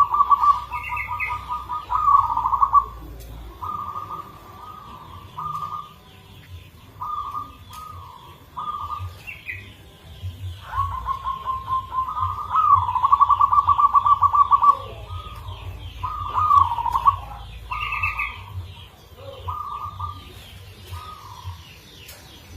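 Local zebra dove (perkutut) singing its cooing song: repeated rapidly trilled coo phrases with short pauses between them, the longest drawn out a few seconds past the middle. A brief higher chirp cuts in three times.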